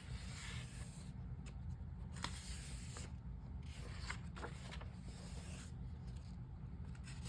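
Paper pages of a coloring book being turned and handled: soft rustling and sliding of paper with a few light ticks, over a low steady hum.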